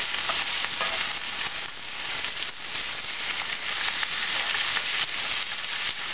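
Cabbage frying in bacon grease in a skillet, a steady sizzle, while a spatula scrapes the pan and turns the leaves over.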